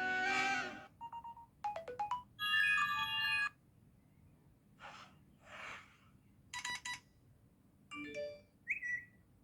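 A string of about eight short iPhone alert tones played one after another as reminder alert sounds are tried out. Each lasts under a second and most are bright chimes or short electronic jingles. Two soft whooshing ones come near the middle and a short rising tone comes near the end.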